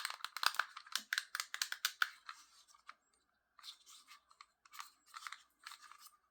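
Hands handling a toy tank's plastic remote control and its packaging. There is a quick run of crinkles and small clicks, a short pause about three seconds in, then more rustling.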